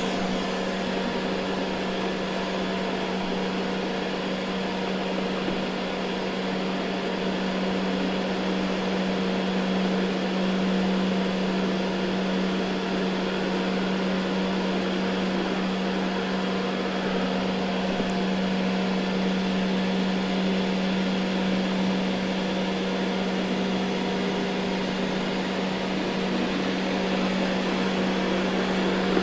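Ecovacs Deebot N79 robot vacuum running on carpet: a steady motor hum with a low drone and a noisy whir of suction and brushes.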